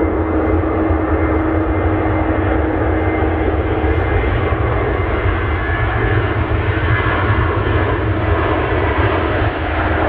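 Jet airliner engines running loud and steady, a dense rumble with a steady tone in it that stops about four seconds in.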